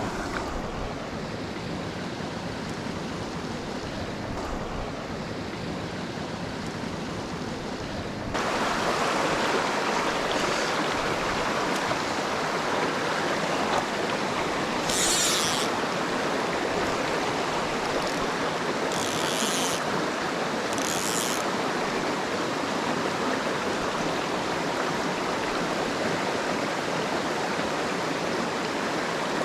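Small mountain stream running over rocks, a steady wash of water noise that jumps louder about eight seconds in. A few short high hissing sounds stand out above it in the second half.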